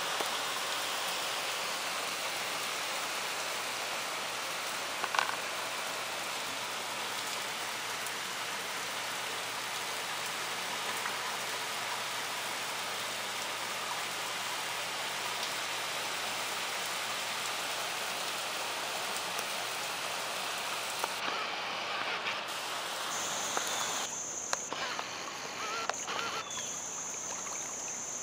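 Heavy rain falling steadily on a wet street and trees, a dense even hiss. Over the last few seconds the hiss thins and a faint high steady whine comes in.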